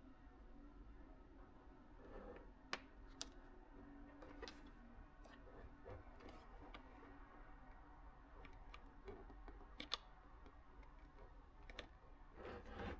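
Faint, scattered clicks and light taps of small objects being handled, over quiet room tone, with a sharper click about three seconds in and another near ten seconds, and a short spell of rustly handling noise near the end.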